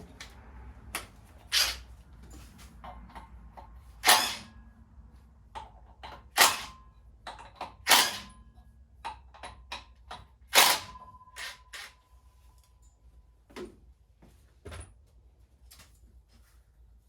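Metal tools and engine parts clanking and clinking as they are handled, with about five sharper knocks, several leaving a brief metallic ring, and lighter clicks between them.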